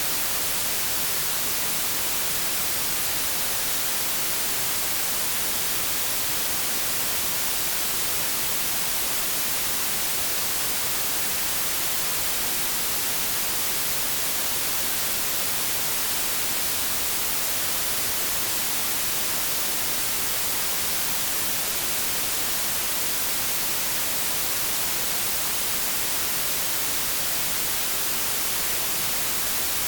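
Steady white noise: an even hiss, brightest in the highs, with no change in level.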